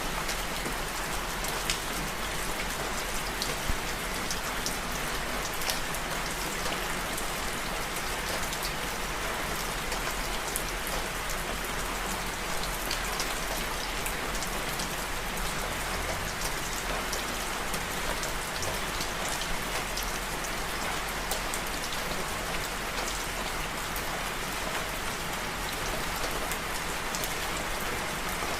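Steady rain falling, an even hiss with many small individual drop ticks scattered through it.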